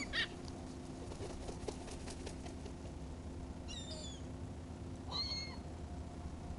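Seagulls calling: a pair of short cries at the very start, then two more cries about four and five seconds in, over a steady low hum.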